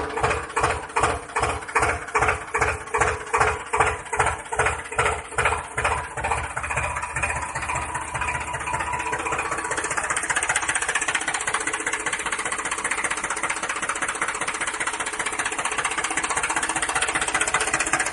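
A small engine or motor running in slow, regular beats about two or three a second, then speeding up into a steady, even run from about eight seconds in.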